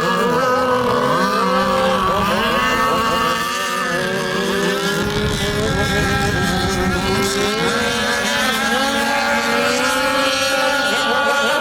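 Speedboat engine running loud, its pitch rising and falling over and over as the boat speeds up and eases off.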